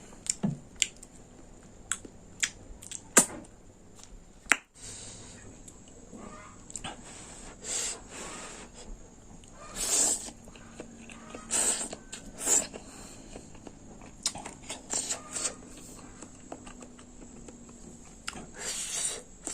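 Eating sounds close to the microphone: irregular chewing and mouth noises, with sharp clicks and several louder, short crunchy bursts.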